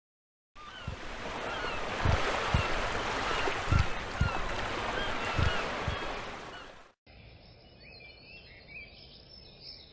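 Rushing water ambience with faint short chirps over it, which cuts off suddenly about seven seconds in and is followed by a quieter outdoor background with a few faint chirps.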